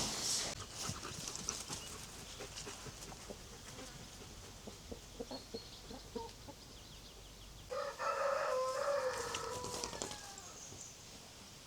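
A rooster crowing once, about eight seconds in: one drawn-out call of about two seconds that drops in pitch at the end. Faint scattered clicks come before it.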